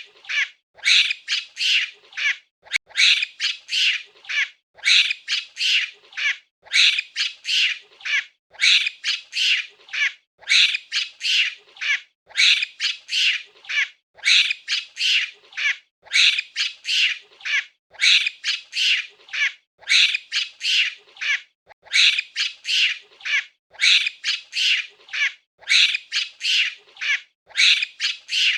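Monkey calling: clusters of short, high-pitched calls that repeat evenly about every two seconds.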